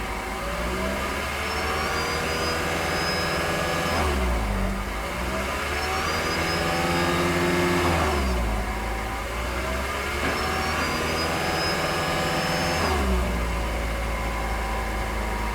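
2011 Toyota Prius's 1.8-litre four-cylinder engine being revved, its pitch climbing slowly for about four seconds and then dropping back, three times over.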